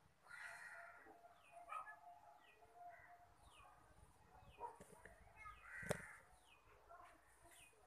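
Faint bird calls: a run of short, falling chirps, about two a second, with a single sharp click about six seconds in.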